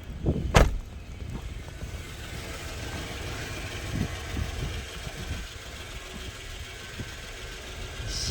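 A Lexus GX 470's 4.7-litre V8 idling steadily while it warms up in the cold, with a loud sharp thump about half a second in.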